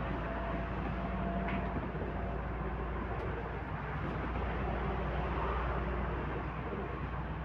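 MAZ-105 city bus driving between stops, heard from inside the passenger cabin: a steady low engine and road rumble with a faint whine from the drivetrain.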